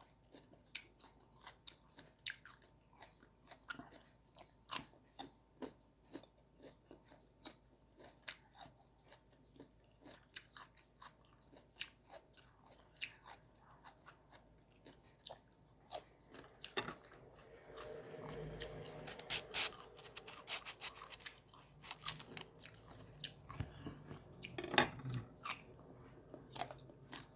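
Close-miked crunching and chewing of crisp, firm green mango. Sharp crunches come about once or twice a second, with a denser, longer bout of chewing around eighteen seconds in.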